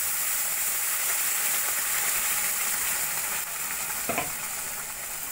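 Masala paste sizzling and bubbling in hot butter in a kadai as it is poured in, a steady frying hiss that eases slightly in the last couple of seconds.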